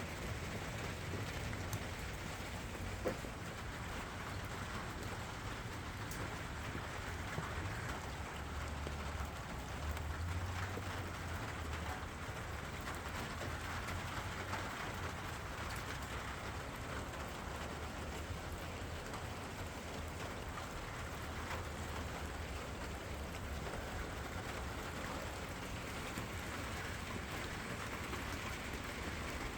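Steady rain falling, an even patter with a low rumble underneath and a single tap about three seconds in.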